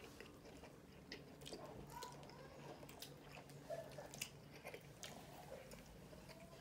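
Faint chewing of nachos and tacos, with scattered small mouth clicks.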